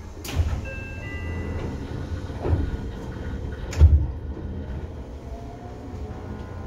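Seibu 2000 series electric train running, heard from inside the car above the line breaker: a steady low rumble with two sharp clunks, the louder one about four seconds in.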